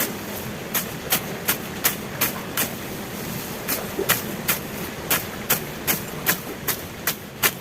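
Sharp knocks repeating about two to three times a second, unevenly spaced, over a steady hiss.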